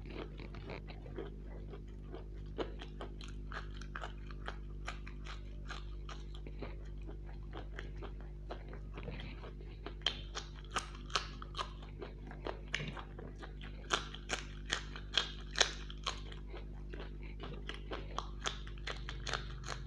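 Close-miked mouth chewing of a fried pakora, soft and continual. From about ten seconds in come sharper, louder crunching bites into a raw green chilli, in a quick run of crisp snaps.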